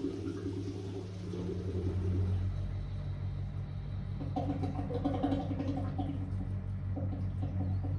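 Blomberg WA391 front-loading washing machine running mid-programme: a steady low motor hum as the drum turns, with the machine's sound changing and growing fuller about four seconds in.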